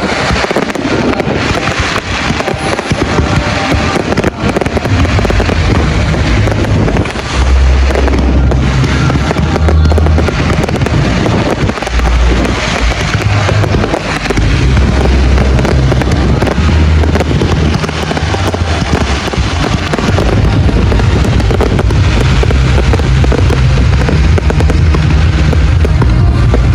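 Fireworks display in a dense, continuous barrage, the bangs and crackles running together without pauses.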